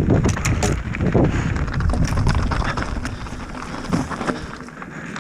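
Mountain bike rolling over rough trail: tyres on dirt and stones with scattered rattles and knocks from the bike, under wind buffeting the microphone, getting quieter toward the end.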